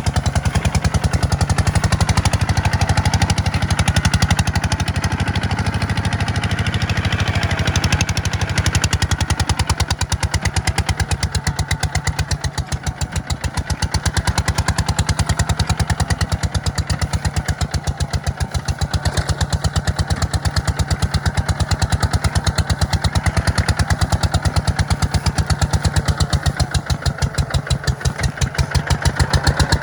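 Kubota tractor's diesel engine running steadily with a rapid, even firing beat while plowing. The engine note dips slightly about twelve seconds in.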